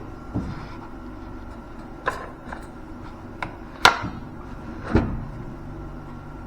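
Several irregular metal knocks and clanks, about six, the loudest just under four seconds in, each with a short ring. A low steady hum starts about five seconds in.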